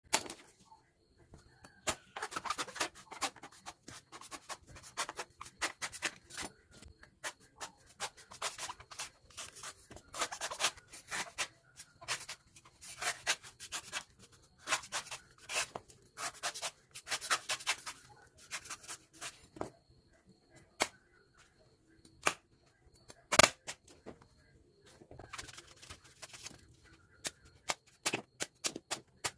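A blade chopping and cutting into a coconut: sharp strikes in quick runs of many strokes, with short pauses and scraping between runs, and one louder single strike about two thirds of the way through.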